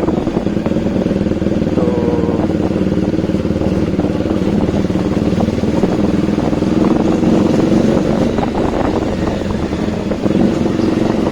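Bajaj Dominar 400's single-cylinder engine running at a steady speed under way, heard through its new aftermarket exhaust.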